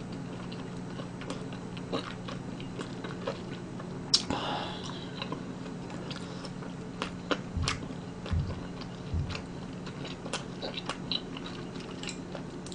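A person chewing and eating soft fish cake in spicy sauce, with small clicks of chopsticks against a dish. A few low thumps come about halfway through, over a steady low hum.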